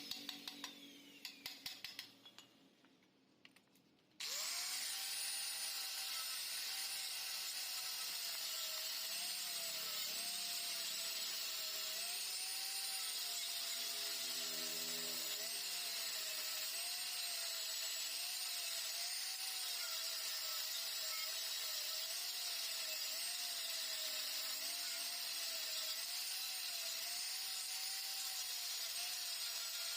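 High-speed electric power tool hollowing out the inside of a Yamaha RX-King motorcycle exhaust. The first few seconds hold fading sound and a few faint clicks. About four seconds in the tool starts suddenly and runs on with a high whine whose pitch wavers up and down as it bites into the metal.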